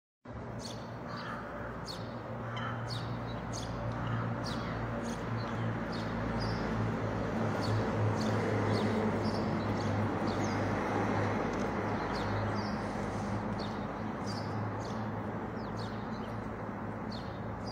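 Small birds chirping repeatedly in short, high calls over a steady background hum of street noise.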